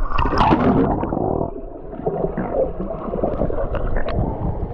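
A child jumps into a swimming pool with a splash in the first second and a half, followed by muffled churning and gurgling water as he swims back up.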